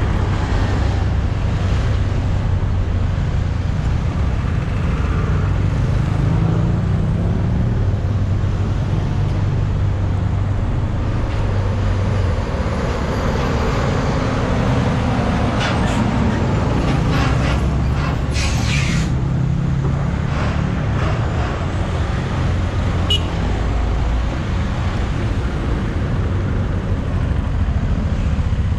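Heavy road traffic with engines of cars, trucks and motorbikes running steadily. A few sharp clacks and a brief high squeal come about two-thirds of the way through.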